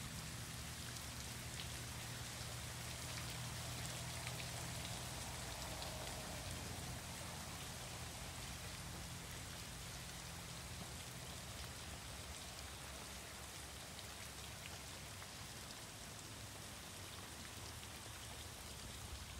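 Rain falling steadily on wet ground and shallow floodwater: an even hiss with scattered drops. A low hum runs underneath and fades out about halfway through.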